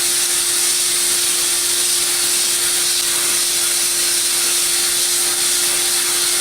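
Sandblast cabinet in use: a steady loud hiss of compressed air and abrasive blasting from the nozzle, with a steady hum underneath.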